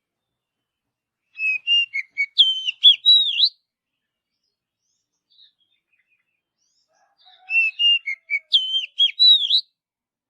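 Oriental magpie-robin (kacer) singing: two matching phrases of clear whistled notes that slide up and down, each about two seconds long, with a pause of about four seconds between them.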